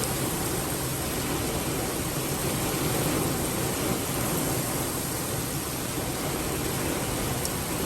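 Strong thunderstorm wind rushing and buffeting the microphone, a steady noise.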